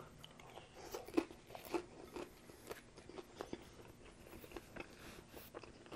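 Close-miked chewing of a crispy fried chicken tender, with irregular crunches of the breading and soft mouth sounds.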